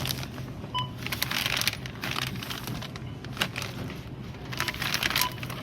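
Irregular crinkling and clattering of handled objects over a steady low hum, with a short electronic beep about a second in and another near the end.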